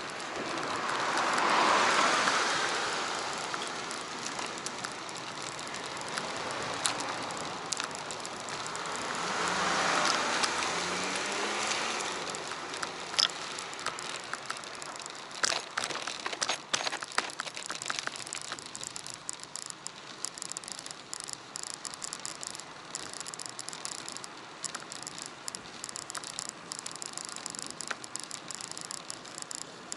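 Two vehicles passing in turn, each swelling up and fading away over a few seconds, heard from a moving bicycle. After them come scattered sharp clicks, then a steady crackling rattle.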